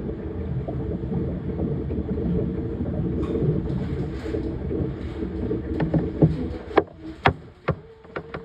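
Washing machine running: a steady motor hum over churning water, with several sharp clicks near the end as it quietens.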